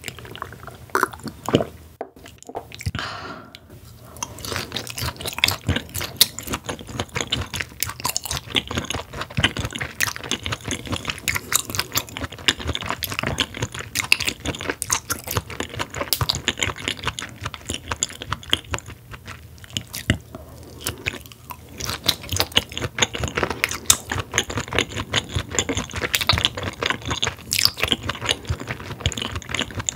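Close-miked chewing of raw Korean beef rib meat: a dense run of small mouth clicks and smacks, with a short pause about two to four seconds in.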